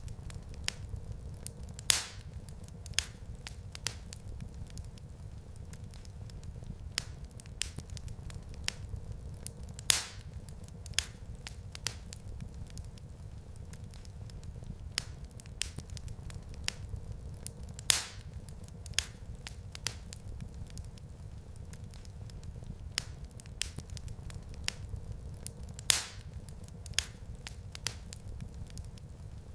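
Wood fire crackling in a fireplace: a steady low rumble of burning under scattered small snaps and pops, with a louder pop about every eight seconds.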